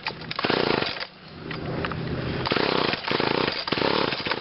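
Weed Eater GTI 15 two-stroke string trimmer being pull-started again after it fired and died: repeated recoil-starter pulls, each a short rasping burst of the engine turning over, three of them close together near the end. The engine does not catch; it has always been hard to start.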